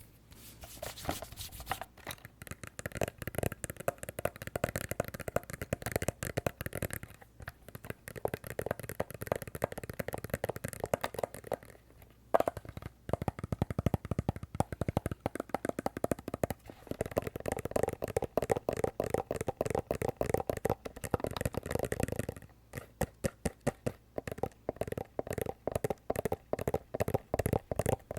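Fast, continuous tapping on a glasses case, many taps a second, pausing briefly about twelve seconds in and again later.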